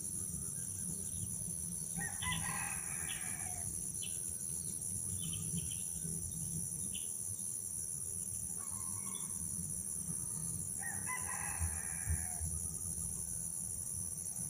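Three long bird calls, each about one to one and a half seconds, over a steady high-pitched insect drone, with a few faint short chirps in between.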